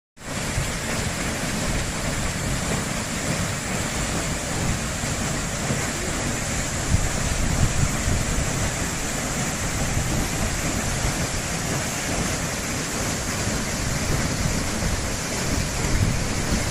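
Waterfall: a steady roar of falling, rushing water.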